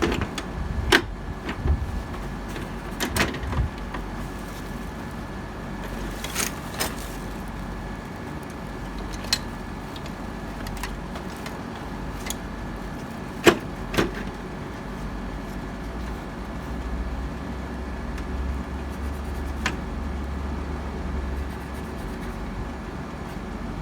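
Scattered sharp clicks and knocks, about seven of them, the loudest about thirteen seconds in, over a steady low hum. They fit hand work with tools and parts during an air-conditioner installation.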